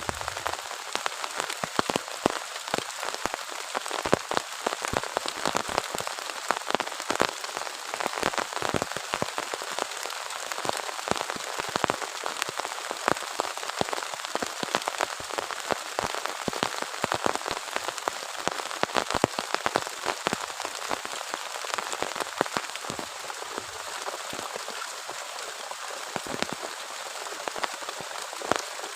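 Heavy rain falling steadily: a constant hiss with many individual drops striking close by as sharp, separate ticks.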